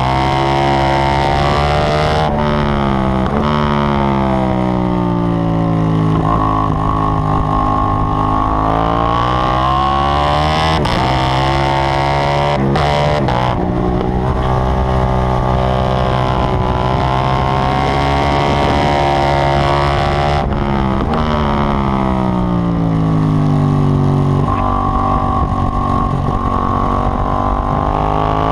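KTM 790 Duke's parallel-twin engine being ridden hard on a race track. Its pitch climbs and falls again and again, with brief sharp breaks at the gear changes.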